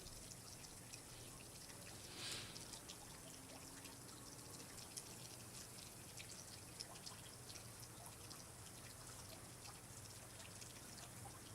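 Faint water dripping and trickling, with many scattered small drips over a soft steady hiss and a brief soft rush about two seconds in.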